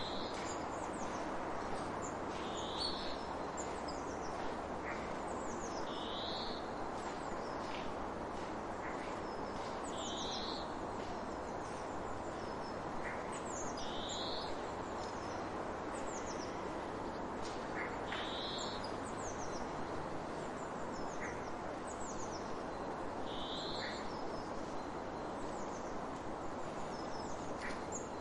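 Birds calling: one bird gives a short high call about every four seconds, with fainter, quick descending chirps from other birds, over a steady background hiss of ambient noise.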